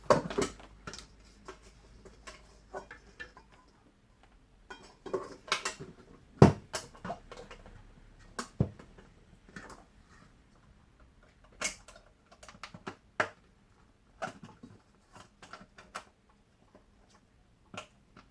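Irregular clicks and knocks as a vintage Hoover Constellation vacuum cleaner is handled and its parts and catch are moved, with the loudest knock about six seconds in.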